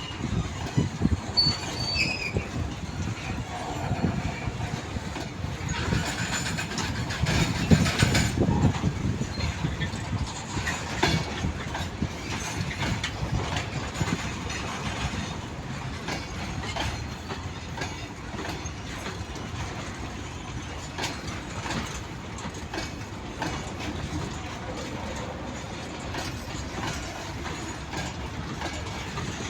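Train rolling past, its wheels clattering over the rail joints in a run of irregular knocks over a steady rumble, loudest a few seconds in.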